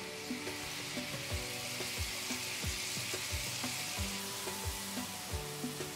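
Chopped tomatoes sizzling as they are sautéed with onions in a pan. Soft background music with a steady beat plays underneath.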